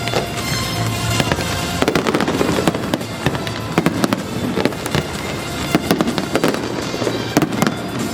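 Fireworks going off in quick succession: many sharp bangs and crackling pops, close together and irregular, with music playing underneath.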